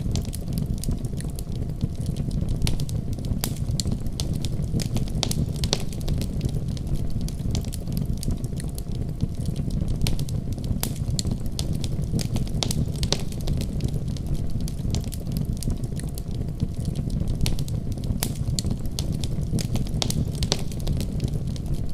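Wood fire crackling, with frequent small irregular pops over a steady low rumble of the flames.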